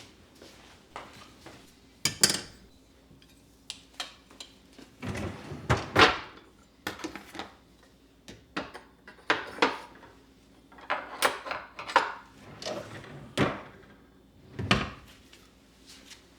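Dishes and kitchenware being handled and set down, a string of irregular knocks and clinks, loudest about a third of the way in and again near the end.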